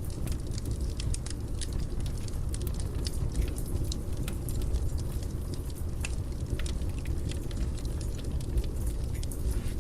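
Fireplace fire crackling: many sharp, irregular pops and snaps over a steady low rumble of the flames.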